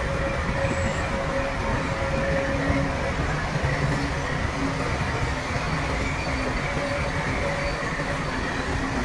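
Shantui crawler bulldozer working, its diesel engine running steadily under a dense clatter of steel tracks, with thin wavering squeals that come and go.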